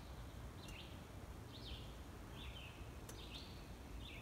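A bird calling over and over outdoors: short, high calls about five times, roughly one every second, over a faint steady low background rumble.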